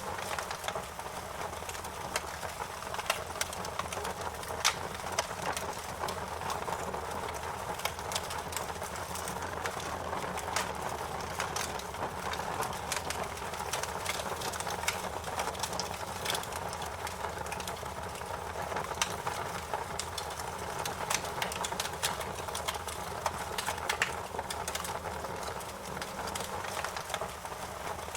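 Wood fire crackling in a fireplace: a steady low rush of burning with frequent sharp, irregular pops and snaps.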